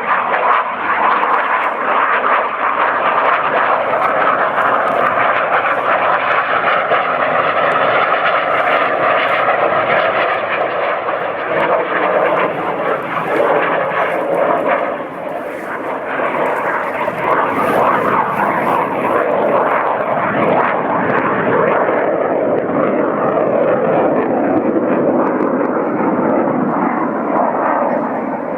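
Airplane passing overhead, its engine noise loud and steady, dipping briefly about halfway through and easing off a little near the end.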